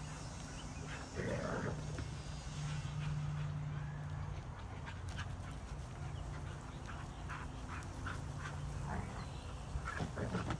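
Pitbull puppies making short vocal sounds about a second in and again near the end, with scattered clicks of claws on a hard floor in between, over a steady low hum.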